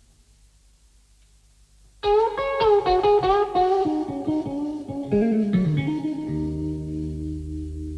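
Guitar playing a blues intro, starting about two seconds in with a run of quick picked notes that slides down into a held low chord.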